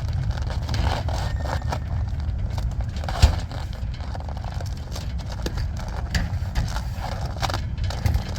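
Steady low rumble with scattered scrapes and clicks, and one sharp knock about three seconds in.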